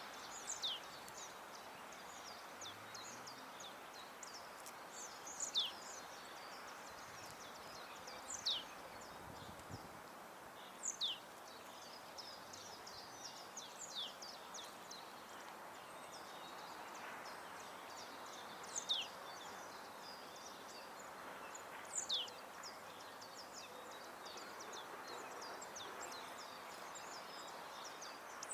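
Small garden songbirds calling at a feeder. Many short high chirps, and every few seconds a thin call that falls sharply in pitch, all over a steady faint background hiss.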